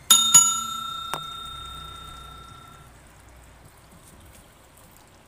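Metal struck twice in quick succession, with a clear bell-like ring that fades away over about three seconds; a lighter click follows about a second in.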